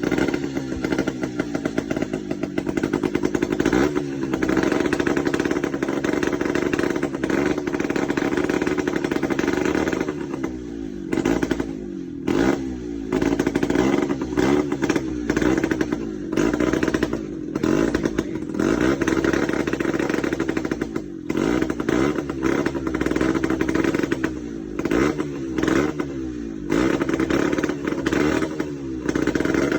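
Truck engine under heavy load with a timber cargo, running hard for about ten seconds, then throttled off and revved up again and again every second or two, with a rattling clatter.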